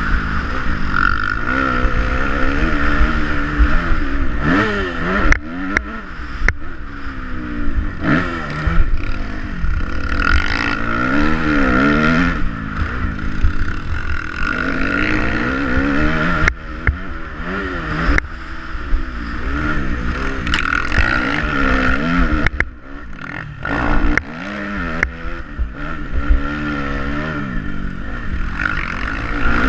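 Motocross bike engine revving up and dropping back over and over as the throttle is worked, with a few sharp knocks along the way.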